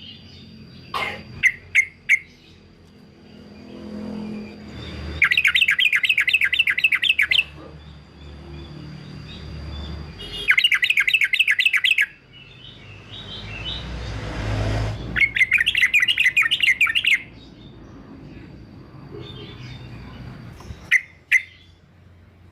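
Male yellow-vented bulbul (trucukan) singing: three fast chattering bursts of repeated notes, each about two seconds long, with a few short single chirps before and after. A low rumble swells underneath about two thirds of the way through.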